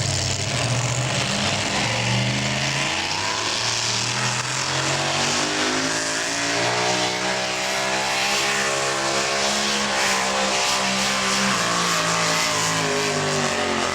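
Super modified four-wheel-drive pulling truck's engine running hard at high revs under load down the track. The pitch climbs in the first couple of seconds and then sags toward the end, as the engine stops running well.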